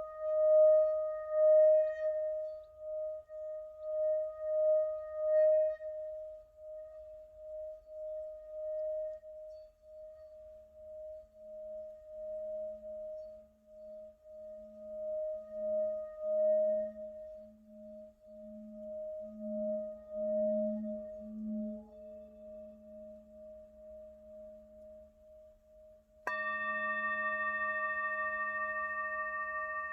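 Singing bowl sounding a sustained ringing tone that pulses slowly. A lower pulsing tone joins about a third of the way through. Near the end a sharp strike sets off a louder, brighter ring.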